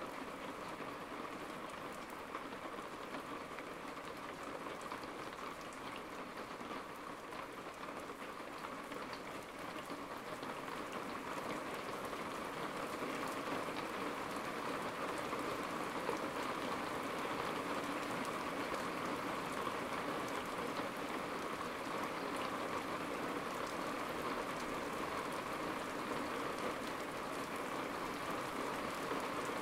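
Steady rain falling, growing heavier about a third of the way through and then holding at the heavier rate.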